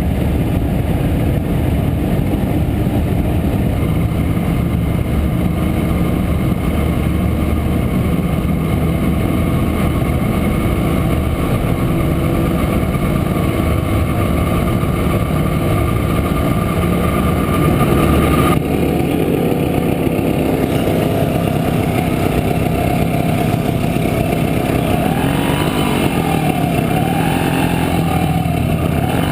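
Montesa Impala Comando 175's two-stroke single-cylinder engine running under way, heard from on board. The sound shifts abruptly about two-thirds of the way through, and near the end the engine pitch rises and falls as the revs change.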